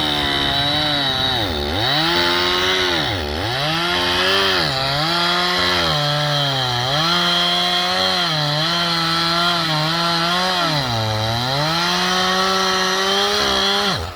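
Two-stroke chainsaw cutting logs at full throttle, its pitch dropping sharply and climbing back about six times as the throttle is let off between cuts, then held high near the end.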